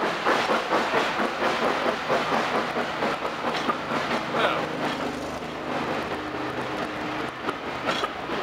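Railway passenger coaches rolling past close by: the wheels click over the rail joints in a quick, continuous clickety-clack over a steady rumble of running gear.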